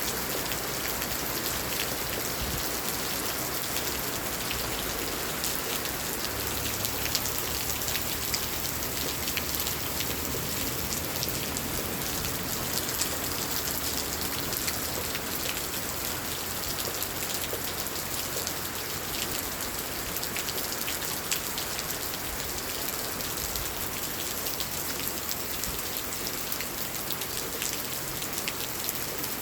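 Steady heavy rain falling, with many drops ticking on hard surfaces.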